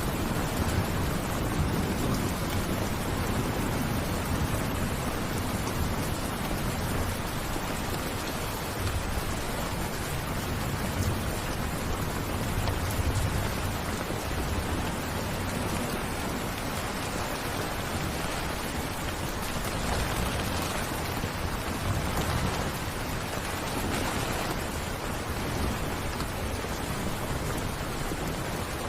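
Steady rain falling, an even wash of hiss, with a low rumble underneath that swells and fades at times.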